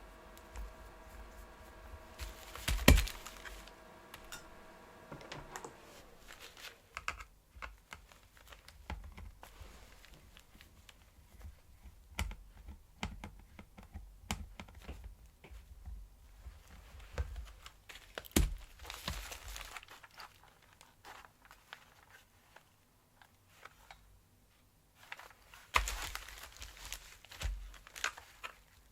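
Hands working on plastic vacuum-cleaner parts: scattered clicks, taps and rustling, with a few louder knocks. A steady hum of even tones fades out about five seconds in.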